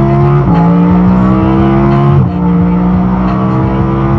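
Car engine pulling through the gears: its pitch climbs slowly, then drops sharply at each upshift, twice.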